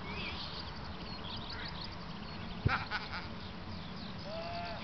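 Small birds chirping in the background, with a sharp knock a little over halfway through, followed at once by a short call. A brief rising-then-falling call comes near the end.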